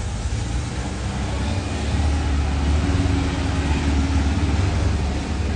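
Classic car's engine running steadily with a low rumble, getting somewhat louder about two seconds in.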